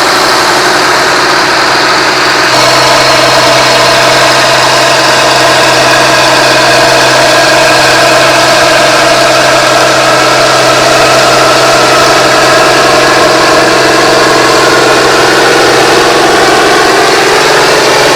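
Antique farm tractor engine running steadily, stepping up slightly in level with a shift in its tone about two and a half seconds in.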